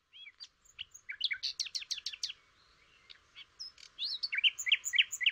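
A small songbird chirping in quick runs of short, high, sweeping chirps, with one dense run about a second in and a louder run near the end.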